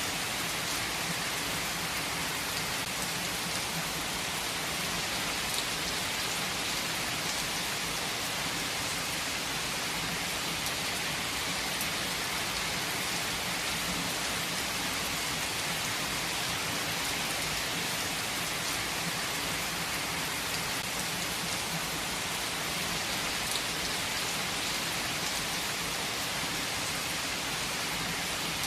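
Heavy rain falling steadily: an even hiss with a few faint drop ticks, no thunder.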